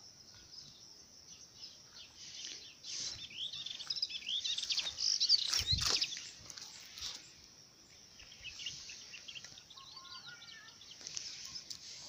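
Small birds chirping and singing outdoors, with many quick calls that are busiest in the middle. A single brief thump about six seconds in is the loudest sound.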